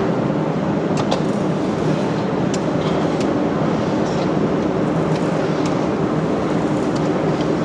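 Factory machinery running steadily, a continuous rumbling hum with a few sharp metallic clicks.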